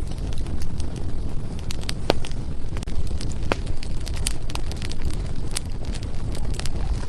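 Wood fire burning in a fireplace: a steady low rumble of flame with irregular crackles and pops from the burning firewood, a few of them sharper snaps.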